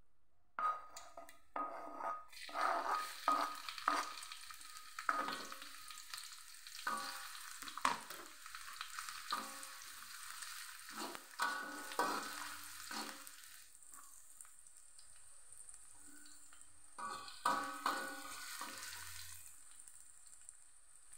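Chopped shallots and garlic sizzling in hot oil in a wok, starting about two seconds in, while a metal spatula scrapes and knocks against the wok in irregular strokes as they are stirred. The stirring slows after the middle and picks up again briefly near the end.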